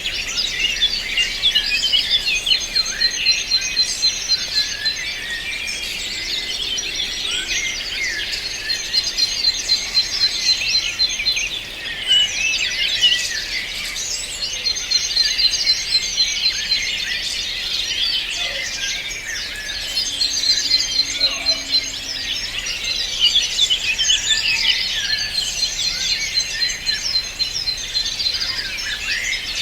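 A chorus of many songbirds chirping and singing at once, with a fast, even trill that recurs every few seconds.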